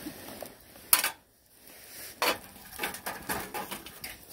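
Dishes and utensils being handled: a sharp clack about a second in, a second knock a little over a second later, then a run of light clinks and taps.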